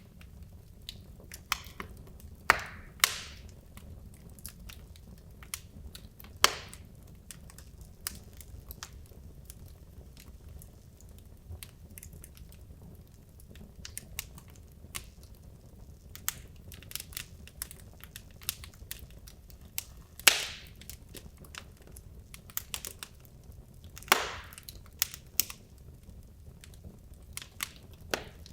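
Wood logs burning in a fireplace: a steady low rumble of the fire with frequent small crackles and about six louder, sharp pops that each trail off briefly, the loudest about twenty seconds in.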